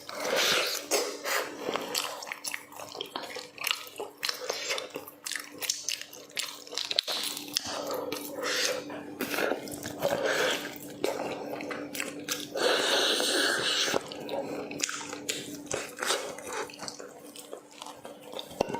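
Close-miked eating sounds: irregular wet mouth clicks and chewing, with a denser, steadier noisy stretch about two-thirds through. A faint steady hum runs underneath.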